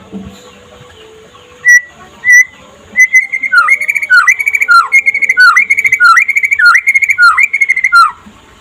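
Young white-rumped shama (murai batu 'trotol') singing: two short whistled notes, then a loud run of repeated whistled phrases, each sliding down steeply in pitch, about two a second, stopping abruptly near the end.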